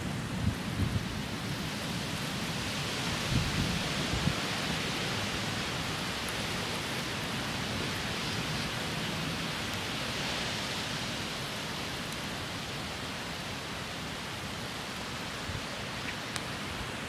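Steady rain falling in a thunderstorm, an even hiss that eases off slightly, with a few wind gusts buffeting the microphone at the start.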